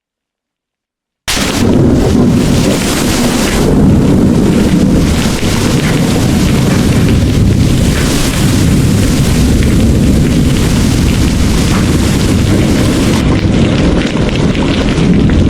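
Heavy storm rain pouring with a deep, continuous rumble of thunder underneath, cutting in suddenly from dead silence about a second in and then running on steadily.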